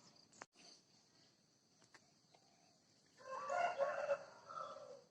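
A rooster crowing faintly once, starting about three seconds in and lasting about a second and a half.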